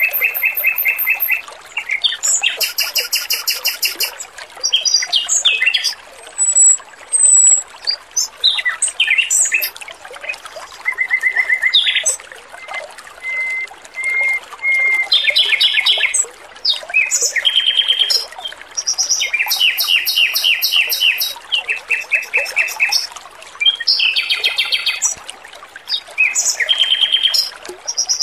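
Male Pekin robin (red-billed leiothrix) singing: a long run of fast, rattling trills of repeated high notes in short phrases with brief pauses. Under it runs a steady trickle of water.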